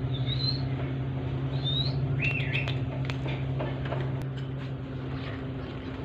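A few short, high bird chirps and whistles in the first three seconds, with some faint clicks, over a steady low hum.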